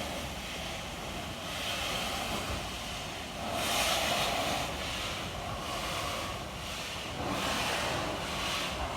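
Railway locomotive running as it moves off, heard under heavy wind noise on the microphone. It grows louder about three and a half seconds in, pulsing at under a second per beat.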